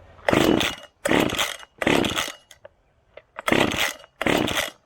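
Old Komatsu Zenoah two-stroke chainsaw being pull-started: five quick yanks on the starter cord, each a short rasping whirr of the engine being cranked over, three in a row and then two more after a short pause. The engine does not catch.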